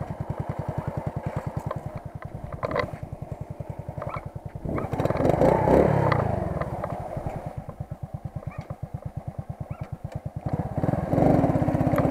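Small motorcycle engine idling with an even, rapid beat, revved up twice and let fall back to idle.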